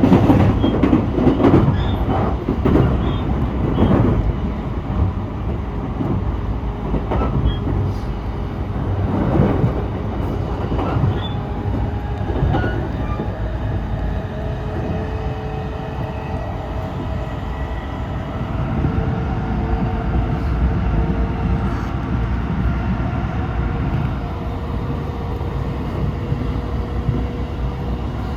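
Train running along the track, its wheels clacking over rail joints and pointwork through roughly the first dozen seconds, then a steadier rumble with a faint held tone.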